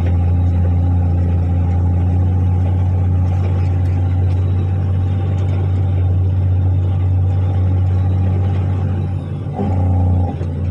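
Diesel engine of an articulated dump truck running steadily under load, with a brief dip and change in its sound near the end.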